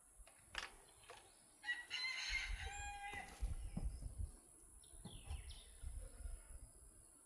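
A rooster crowing once, about two seconds in. Low rumbling and a few light clicks and chirps run underneath.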